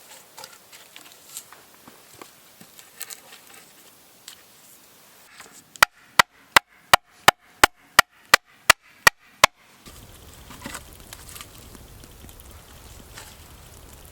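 Eleven sharp, evenly spaced chops into wood, about three a second, each with a short ring. Before them, faint scattered clicks and rustles.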